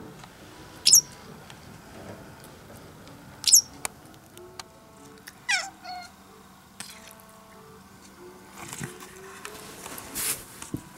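Two sharp, high, falling chirps from a Japanese wagtail, about two and a half seconds apart, then a cat's squeaky, falling yawn, all over soft background music.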